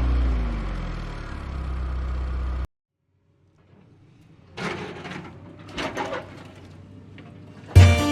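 Intro sound effects: a vehicle engine revving, cut off suddenly after about two and a half seconds, then a few quick whooshes. Keyboard music starts right at the end.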